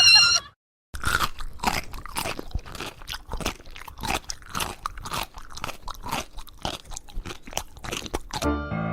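Repeated crunching of hard, crisp food being chewed, with about two or three crunches a second.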